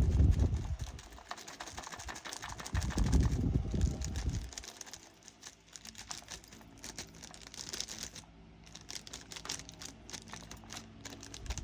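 Small plastic diamond-painting drills clicking and rattling as they are shaken out of a bag into a storage pot, with crinkling of the bag. Two heavier low bumps of handling come in the first half, and the clicks grow fainter and sparser after that.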